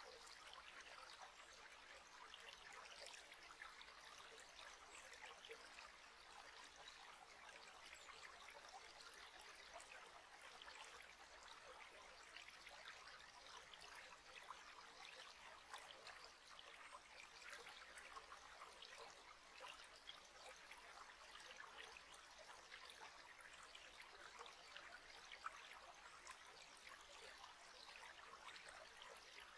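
Faint, steady trickling of running water, a small stream's even flow of fine splashes.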